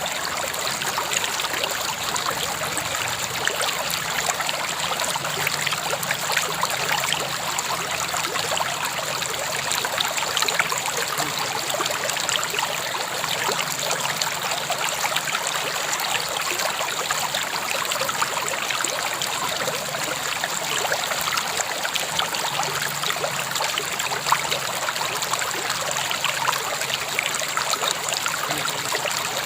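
River water flowing over stones in a steady, even rush, with small splashes and trickles running through it.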